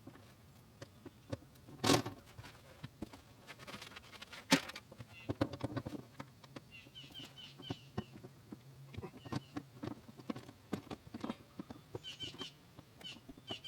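Scattered knocks, clunks and scrapes of a bench seat and hands working inside a pickup cab, with the loudest knocks about two and four and a half seconds in. Short bird chirps come in quick runs about halfway through and again near the end.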